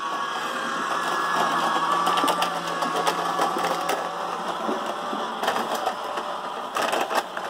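Battery-powered ride-on toy train's electric motor whirring steadily as it runs along its track, with scattered clicks and knocks from the wheels and the load riding on it.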